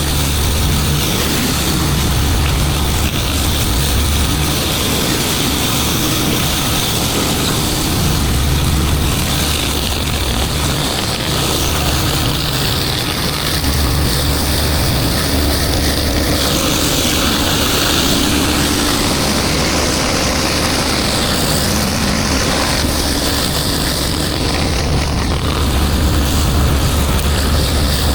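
A pressure washer's engine running steadily under load, with the hiss of water spraying from the wand over it.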